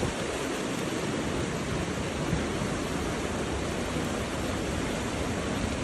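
Steady rushing noise of hurricane wind and rain, with no distinct gusts or impacts.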